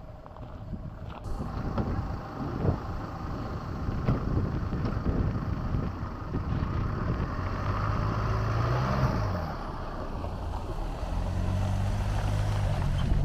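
Gusty wind buffeting the microphone, with a low engine hum coming in for a few seconds in the second half.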